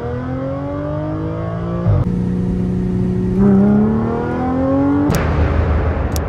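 Audi S4 B8.5's supercharged 3.0-litre V6 with a loud exhaust accelerating hard through the gears. The engine note climbs, drops at a shift about two seconds in, climbs again, shifts again around three and a half seconds in, and climbs once more. About five seconds in it gives way to a broad rushing noise.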